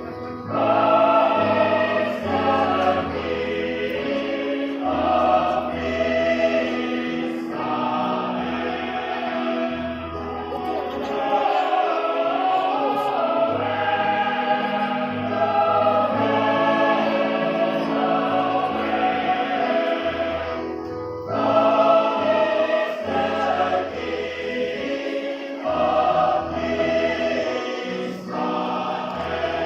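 Church choir singing in harmony, several voice parts holding long notes that change every second or two, with low sustained notes underneath.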